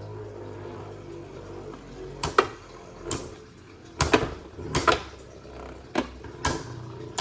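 Beyblade Burst tops spinning in a plastic stadium: a steady whir, then irregular sharp plastic clacks from about two seconds in.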